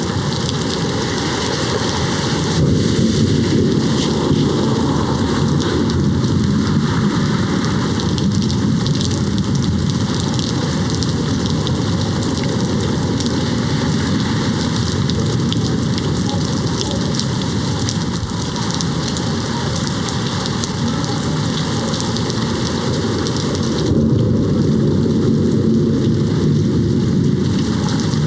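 Steady heavy rain pattering on a window, with low thunder rumbling underneath. The rumble swells about three seconds in and again near the end.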